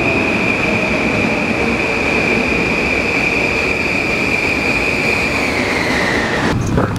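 Passenger train pulling into an underground station, its steel wheels squealing with a steady high whine over the rumble of the cars. The squeal drops in pitch as the train slows and cuts off near the end.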